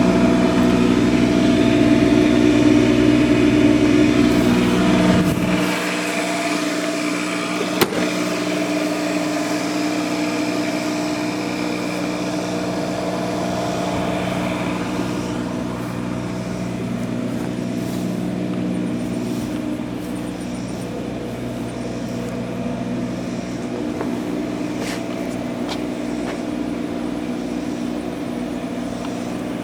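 An engine running steadily at idle, a constant pitched hum. The deepest rumble drops away about six seconds in, and there is one sharp click around eight seconds.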